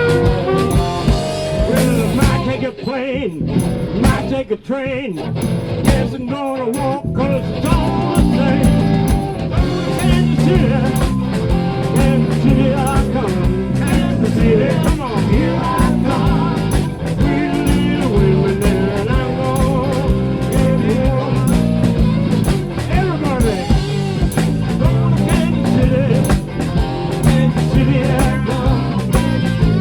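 Live blues-rock band playing with electric guitar, bass and drums to a steady beat. The low end drops out briefly a few seconds in, then the full band comes back.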